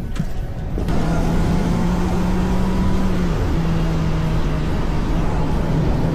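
A motor vehicle's engine running steadily amid road and wind noise, its pitch dipping briefly a little past three seconds in and then carrying on slightly lower.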